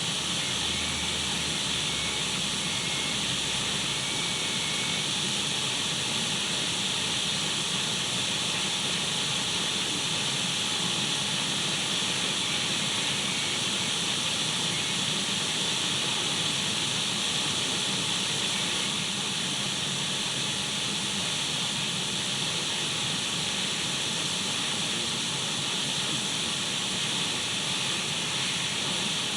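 Radio static used as white noise: a steady, unchanging hiss, brightest in the high range.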